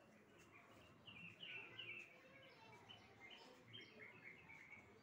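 Faint bird calls: a quick series of short chirps, each falling in pitch, over a quiet outdoor background.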